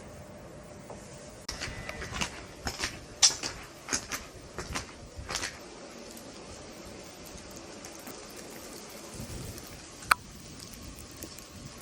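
A quick, irregular run of sharp clicks and crunches lasting a few seconds, then a single sharp click near the end.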